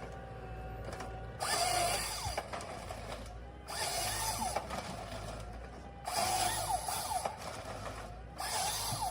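Forestry harvester at work: loud bursts of grinding machine noise about every two and a half seconds, four times, over a steady low engine hum.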